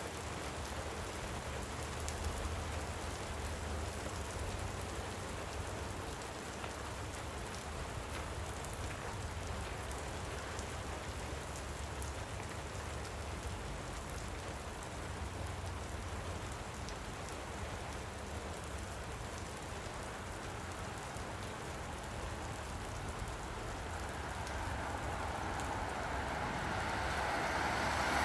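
Light rain falling steadily, a fine patter of drops. Near the end a passing road vehicle grows louder as it approaches.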